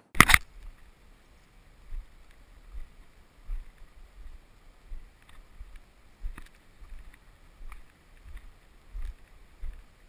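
Footsteps of a hiker walking on a trail at a steady pace, soft thuds about one every 0.7 seconds. A single sharp knock sounds just at the start.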